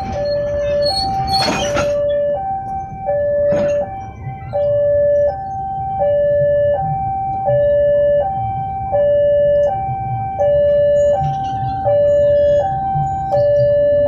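Two-tone electronic warning alarm repeating a high note and a low note in turn, each held about three-quarters of a second. A sharp burst of noise cuts in about a second and a half in.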